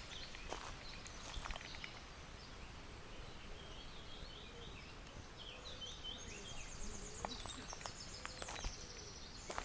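Songbirds singing: a run of short, quick repeated notes from about three seconds in, then a higher, rapid trill near the end, with a few faint clicks.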